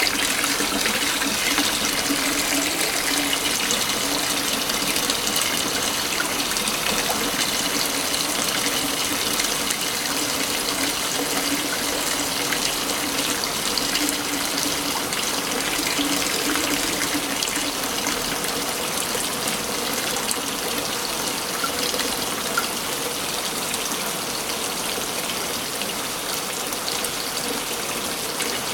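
Waterfall: falling water rushing and splashing in a steady, dense roar of noise that does not let up.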